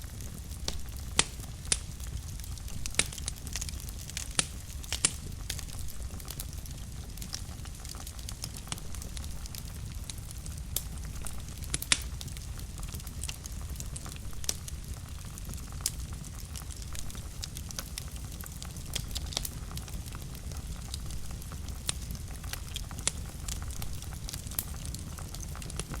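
Wood fire burning in a fireplace: a steady low rumble with irregular crackles and sharp pops throughout.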